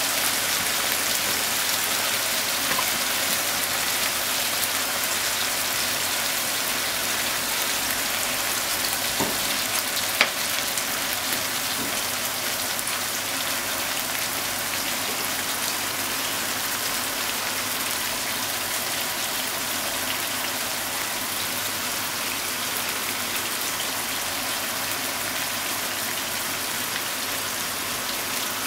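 Chicken pieces and vegetables frying in a pan: a steady sizzle that fades slightly, with one sharp click about ten seconds in.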